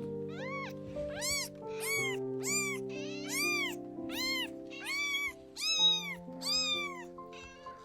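Kitten mewing: about ten high-pitched mews in quick succession, each rising then falling in pitch, over soft background music with held notes.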